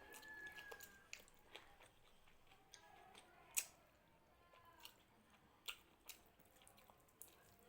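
Faint close-up eating sounds: chewing with scattered wet mouth clicks and smacks, the sharpest click about three and a half seconds in.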